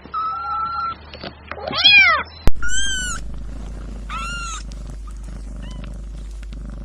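Kittens meowing: about four short calls, the later ones high and thin, with a sharp click about two and a half seconds in.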